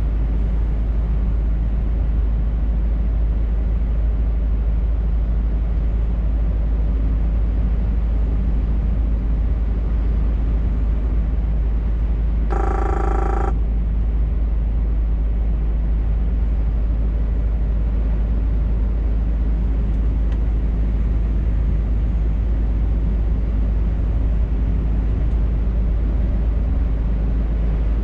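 Scania R580 truck's V8 engine and tyres on a winter road, a steady low rumble while driving. A short pitched tone, about a second long, sounds once about halfway through.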